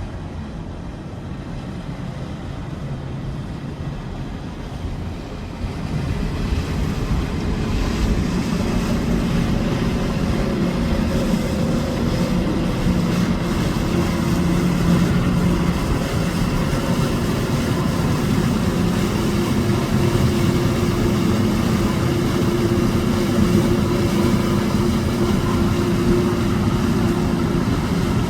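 Motorboat engines running steadily, a low drone that grows louder about six seconds in and stays loud.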